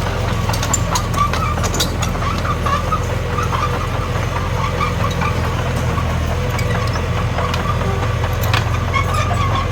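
Heavy earthmoving machinery's diesel engine running steadily, with scattered sharp clanks and clicks.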